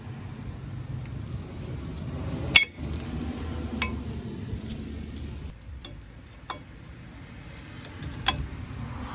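A few sharp metallic clinks of tools and brake parts being handled, the loudest about two and a half seconds in, over a low steady rumble.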